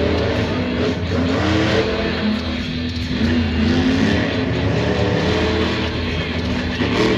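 Monster truck's supercharged alcohol-burning engine revving hard, its pitch climbing and falling again and again.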